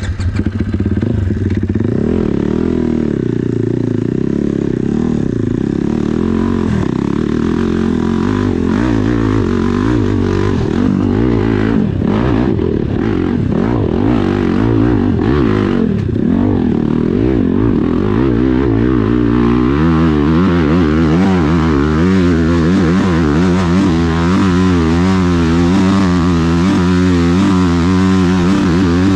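Dirt bike engine revving hard under load while climbing a steep hill, its pitch rising and falling throughout; about twenty seconds in it settles into a steadier, more even note.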